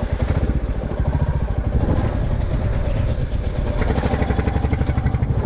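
Motorcycle engine running steadily at low revs, an even pulsing beat throughout.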